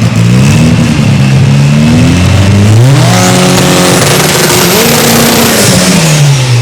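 Drag-racing car accelerating hard. The engine revs climb and drop back several times as it shifts up through the gears, grow stronger as it comes close around the middle, and slide down near the end.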